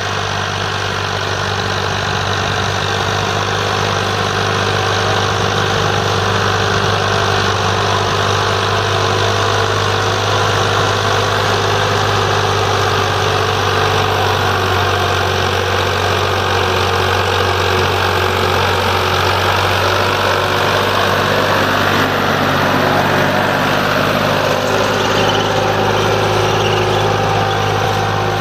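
Diesel farm tractor engine running at a steady speed, an even, unbroken drone with no change in pitch.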